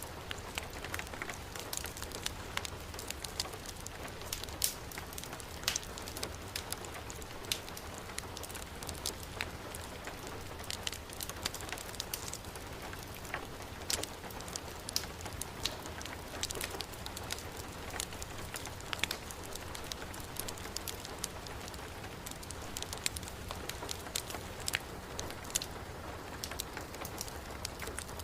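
Heavy rain falling steadily, mixed with a crackling wood fireplace: a continuous hiss with frequent sharp pops and clicks scattered over it.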